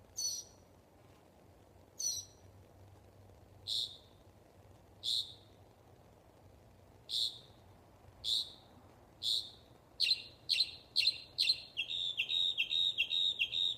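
A bird calling at night: single short, sharp, high notes every second or two, then from about ten seconds in a quickening run of several notes a second that slowly falls in pitch.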